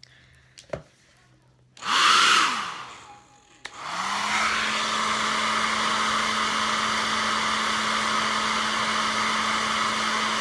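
Hair dryer switched on in a short blast that spins down about two seconds in, then switched on again a couple of seconds later and running steadily, airflow rushing over a steady motor hum.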